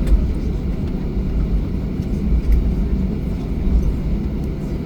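Cabin noise of a Boeing 737-800 rolling on the ground just after landing: a steady low rumble from the engines and the wheels on the tarmac.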